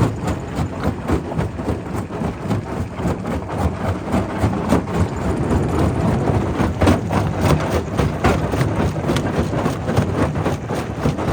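Quarry primary rock crusher working: a steady heavy machine drone with many irregular sharp knocks and cracks of stone being broken.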